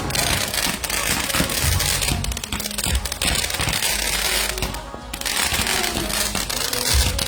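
Fireworks crackling: a dense, continuous run of rapid pops and crackles that eases briefly about five seconds in, with music playing underneath.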